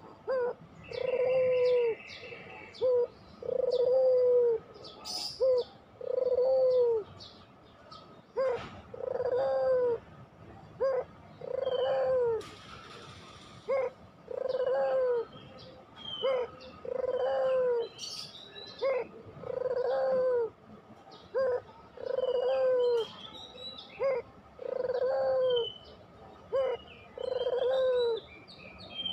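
Puter pelung dove cooing over and over: a short note or two, then a longer, low coo that bends down at its end, repeating about every two and a half seconds. Small birds chirp faintly behind it.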